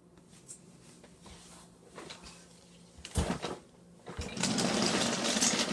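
Freight train rolling past, a rapid mechanical clatter over a steady low hum, with knocks and a louder noisy stretch in the second half.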